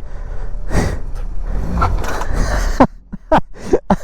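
Wind rush and engine noise while riding a 2006 Honda CBR600RR sport bike with a Yoshimura exhaust, dropping off sharply about three seconds in.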